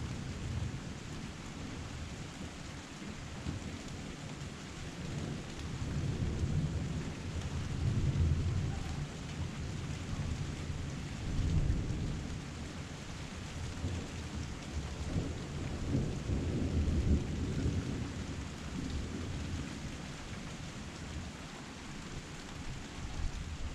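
Rain pouring down in a steady hiss, with low thunder rolling in several long swells that rise and fade.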